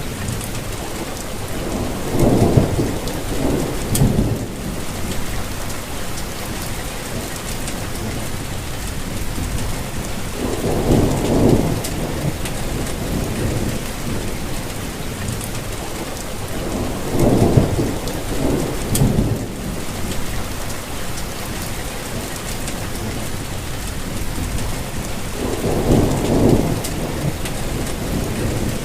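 Steady rainfall hiss, with low rumbles of thunder swelling and fading four times, each lasting a couple of seconds.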